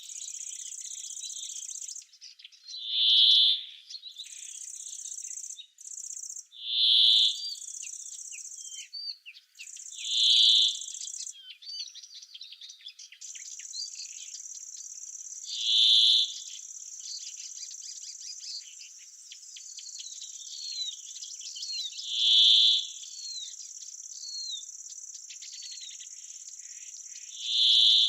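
Oak-wood summer ambience: insects shrilling steadily in a high, even band, broken at first and unbroken from about halfway, with birds chirping. A loud short call repeats six times, every four to six seconds.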